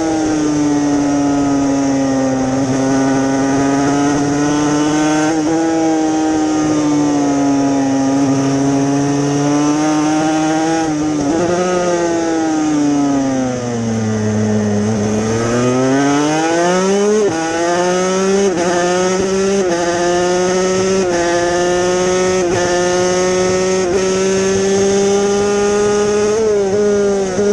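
Yamaha TZ250 two-stroke racing engine at high revs on track, with steady wind rush. The revs hold high, fall away in a long slide about twelve seconds in as the bike slows for a corner, then climb again in a string of quick rising steps as it accelerates up through the gears.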